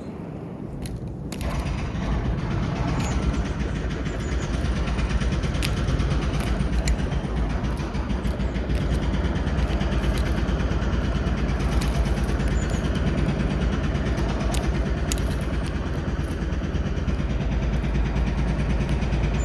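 An engine running steadily, with a low hum, coming in abruptly about a second in and holding level throughout.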